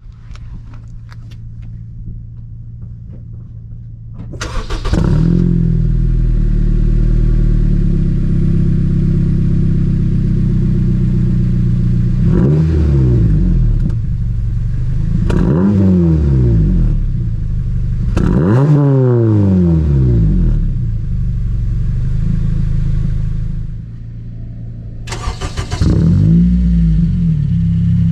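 Honda K20 inline-four with a full-titanium Morimori-kan exhaust starting about four seconds in and settling to a steady idle. It is then blipped three times, pitch rising and falling each time. Near the end the sound drops and an engine starts again about three seconds before the end and idles.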